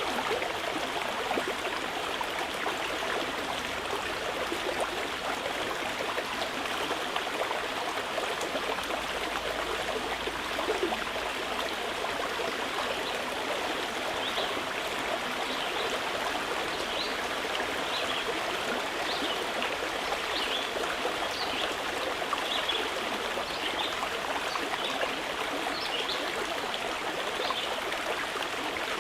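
Mountain river rushing steadily over its bed. From about halfway through, small birds chirp repeatedly above the water.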